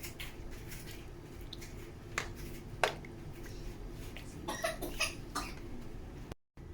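A few short clicks and taps over a steady low hum; the sound cuts out completely for a moment near the end.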